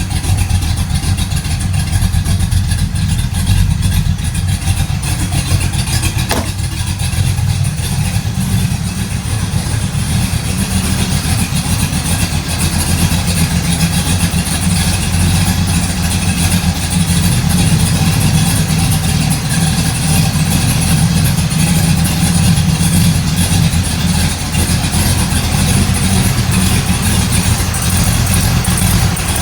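A modified truck engine running steadily at idle. The owner blames its oversized camshaft for low idle vacuum and a hard-to-hold idle.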